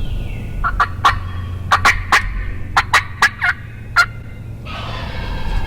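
Wild turkey gobbling: a run of quick, sharp rattling notes lasting about three seconds, over a steady low rumble.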